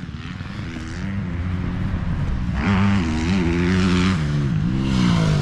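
Dirt bike engine running, its pitch rising and falling as it revs, growing louder from about a second in.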